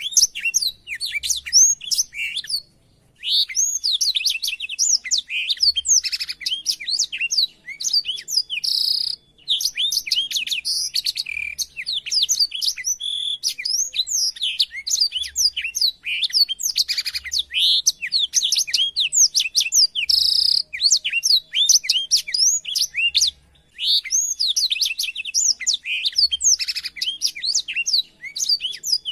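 A blackthroat (black-throated canary) singing long runs of rapid, varied twittering with many quick up-and-down whistled notes and trills, broken by a few brief pauses.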